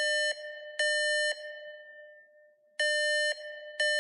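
Electronic alarm beeping about once a second in groups of three, each beep a steady half-second tone, with a pause of about a second and a half after each group: a building alarm going off.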